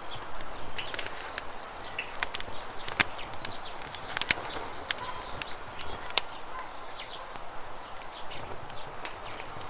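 Campfire crackling, with irregular sharp pops and snaps over the steady rush of a river. A few short bird chirps are heard now and then.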